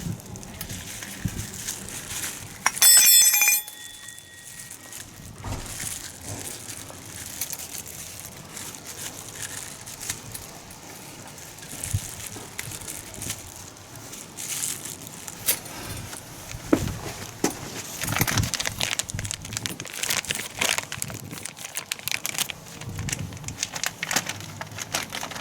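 Hand-tool work on metal scooter parts. A loud metallic clank that rings briefly about three seconds in, then scattered clicks, taps and scrapes.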